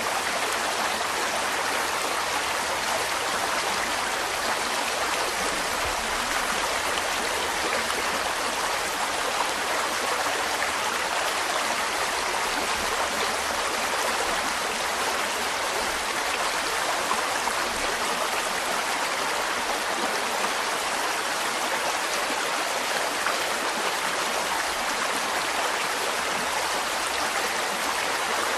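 A mountain stream running over rocks: a steady, even rush of flowing water.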